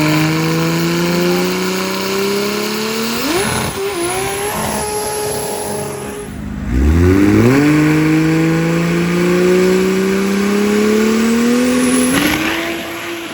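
Drag-race cars accelerating hard down the strip at full throttle, twice in a row. Each engine note starts suddenly and climbs steadily in pitch for several seconds.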